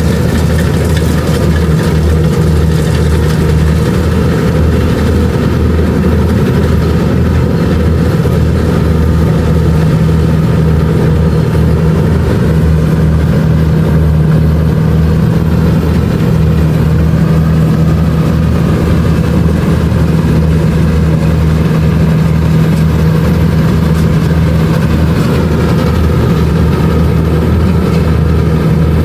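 Kubota DC-70 Plus combine harvester's diesel engine running loud and steady at a constant speed, an even drone with no let-up.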